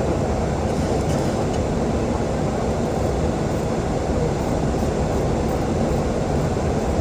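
Steady rushing noise inside a Boeing 737-800's flight deck: airflow and engine noise holding at an even level.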